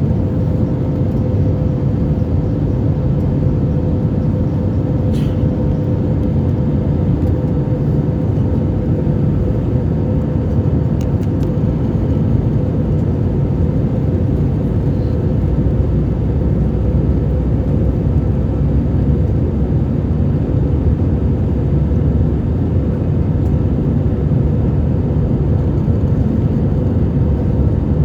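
Airbus A320 engines and airflow heard inside the cabin: a loud, steady low rumble with a constant hum running through it, as in climb or cruise after takeoff.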